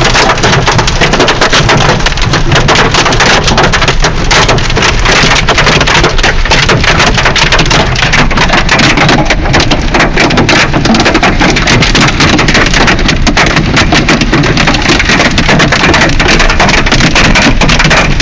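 Hail pelting a moving car, heard from inside: a loud, dense, unbroken clatter of stones striking the body and glass, over low road rumble.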